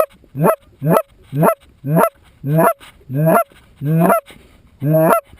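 Hand-blown goose call sounding a steady series of about nine loud honks, each rising sharply in pitch. The honks start about two a second and stretch out longer and slower toward the end, as when calling geese in to decoys.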